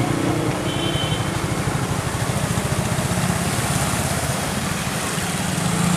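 A small engine running steadily, with a rapid low pulsing under a constant hiss.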